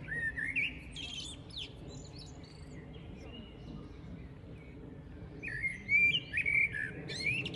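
Small songbirds chirping and twittering in short rising and falling notes, in two bouts: a brief one at the start and a longer, louder one from about five and a half seconds in, over a faint low background noise.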